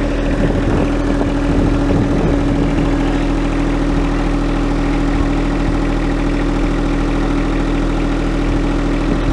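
Tractor engine running steadily at a constant, even speed.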